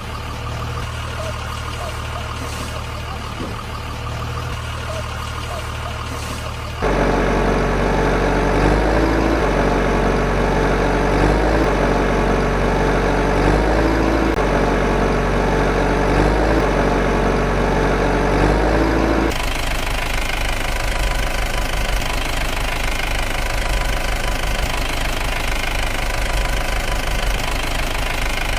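Truck engine sound running steadily, in three stretches that switch abruptly to a different engine note about a quarter and about two-thirds of the way through. The middle stretch is the loudest.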